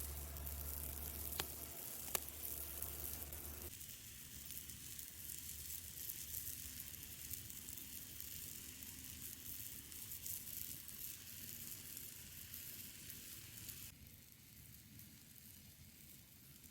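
Food sizzling and frying in a pan over a wood fire, a steady crackly hiss. Two sharp clicks come in the first few seconds. The sound changes abruptly about four seconds in, when a low hum stops, and it thins out near the end.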